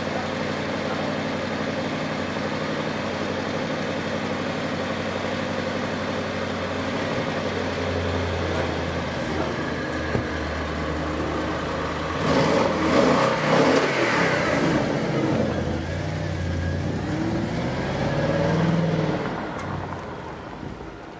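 Audi RS5's 4.2-litre V8 idling steadily, then blipped hard a few times about twelve seconds in, its note rising and falling with each rev. It then pulls away with a brief rise in pitch and fades out near the end.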